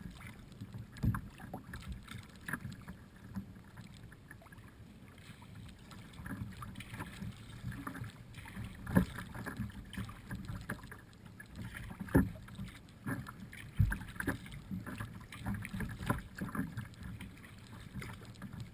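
Kayak paddling: irregular splashes and knocks of paddle strokes on the water and hull, with a few louder thumps.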